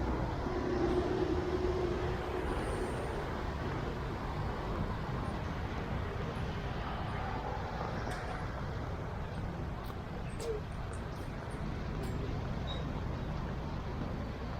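Steady street traffic noise: vehicles passing along a busy road, with a brief engine-like hum near the start.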